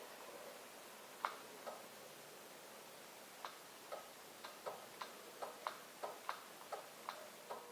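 A faint series of sharp clicks, more than a dozen at irregular intervals, coming faster in the second half.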